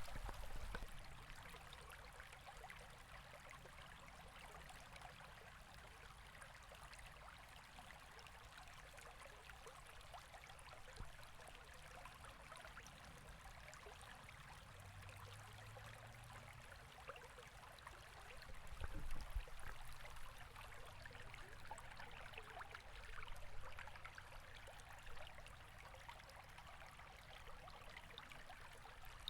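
River water flowing steadily, a soft continuous rush with a few brief low swells.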